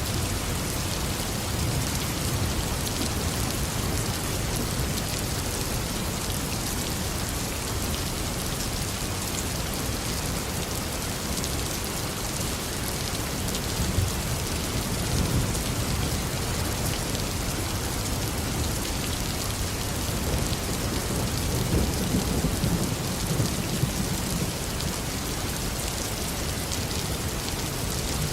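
Steady tropical downpour, with low rumbles of thunder that swell and fade, once around the middle and again later on.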